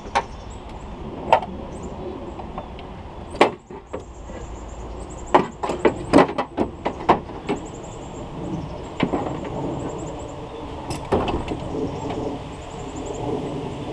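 Scattered metallic clanks, knocks and rattles as a snapped window regulator's rails and cables are worked loose and pulled out through the inner panel of a 1999–2007 Chevy Silverado / GMC Sierra front door, the sharpest knocks coming about three and a half, five to seven, and eleven seconds in.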